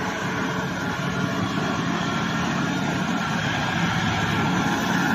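Heavy truck's diesel engine labouring up a slope, growing steadily louder as it approaches, with a thin high whine over the rumble.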